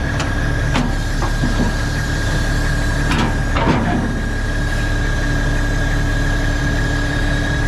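Heavy diesel engine idling steadily, with a constant high-pitched whine over it and a few brief clatters.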